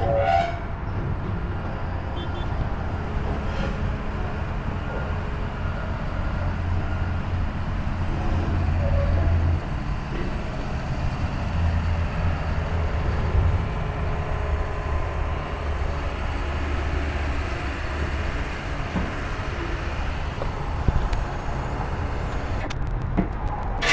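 Ram pickup truck driving down the road: a steady low engine and road drone.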